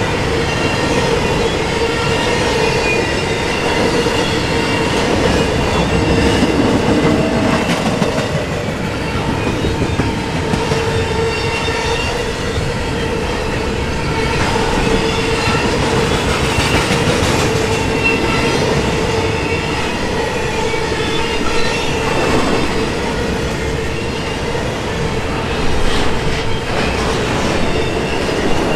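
Double-stack intermodal container cars of a freight train rolling past, steel wheels running over the rails in a continuous rumble, with a steady ringing tone through it and a few sharp knocks in the later part.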